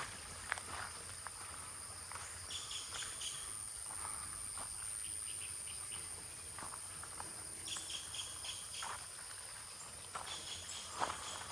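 Insects chirping over a steady high-pitched insect drone, with groups of chirps swelling up a few times, and scattered light clicks and crunches.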